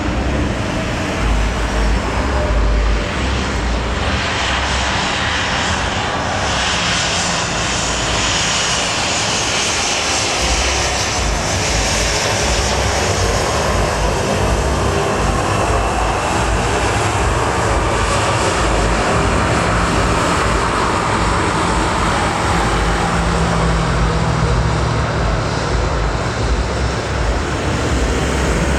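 Jet airliner engines passing close by, a loud, steady sound with a high whine that is strongest about a third of the way in.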